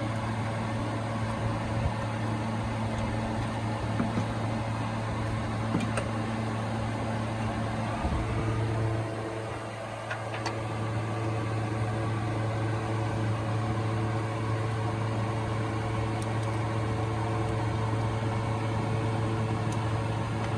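Toyota Premio's 1ZZ inline-four engine running steadily with a low hum. The level drops briefly about eight to ten seconds in, then the engine carries on at a slightly changed note.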